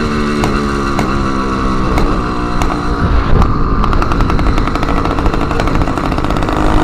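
Small motorized-bicycle engine running loud through an exhaust with its end tip removed. About halfway through, the engine note drops and it crackles with a rapid string of pops for a couple of seconds before the steady running returns.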